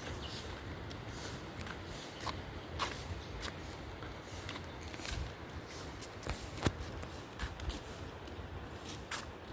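Footsteps and shuffling: irregular light crackles and scuffs over a low rumble, with one sharper click about two-thirds of the way through.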